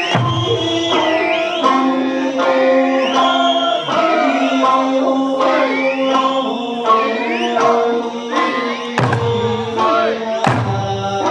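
Eisa music: an Okinawan folk song sung with sliding, drawn-out notes over steady instrumental accompaniment, with a couple of heavy drum strikes near the end.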